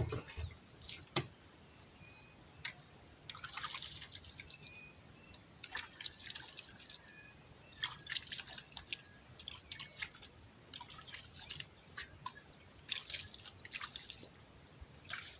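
Water splashing and dripping in irregular bursts as well water is scooped and poured over the body in a bowl bath.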